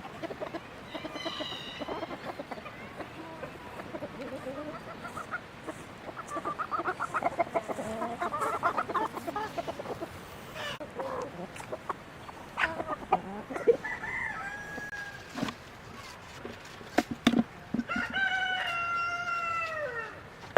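Chickens clucking, busiest about a third of the way in, with a few sharp knocks in the middle. Near the end a rooster crows once, a long call that drops in pitch as it ends.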